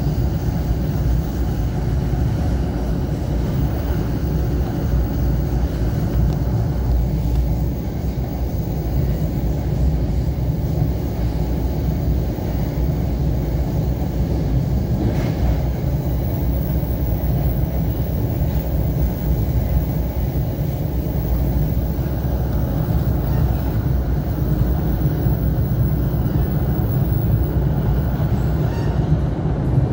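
Passenger train running at speed, heard from inside the coach: a steady low rumble of the wheels on the rails and the moving car.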